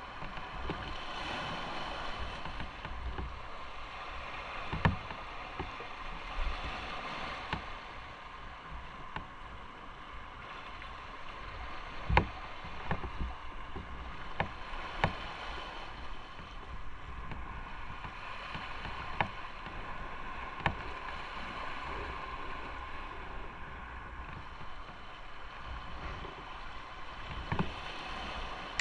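A moving motorcycle: a steady rush of wind and road noise with the engine running underneath, and a few sharp knocks scattered through.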